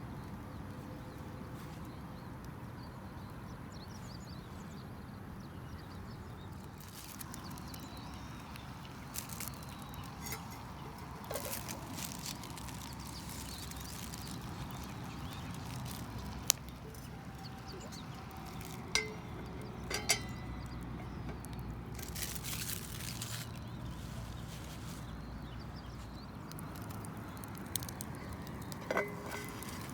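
Scattered clinks and clicks of cooking utensils and cookware, a few ringing briefly, over a steady low background.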